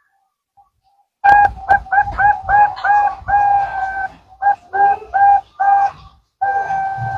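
Zebra dove (perkutut) singing. About a second in, it starts a rapid string of short, clear coos on one pitch, with a couple of longer drawn-out notes among them.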